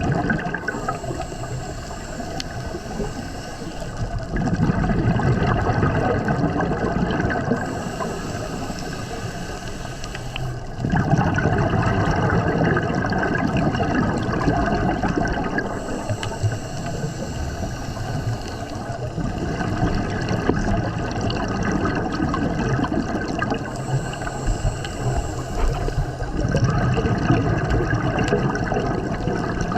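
Scuba diver breathing through a regulator underwater: a hissing inhale followed by a longer, louder bubbling exhale, about four breaths in a steady rhythm.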